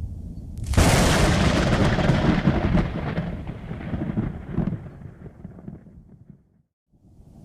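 A thunderclap: a sudden sharp crack about a second in, then rolling thunder that slowly fades over several seconds above a low rumble. The sound drops out completely for a moment near the end before the rumble returns.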